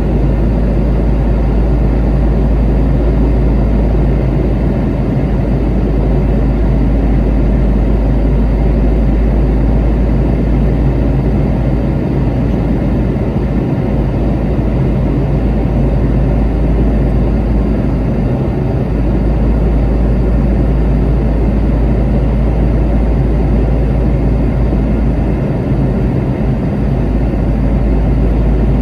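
Steady cabin noise inside a Boeing 717 on approach: the drone of its rear-mounted Rolls-Royce BR715 turbofans and rushing airflow, with a deep rumble and a steady low hum.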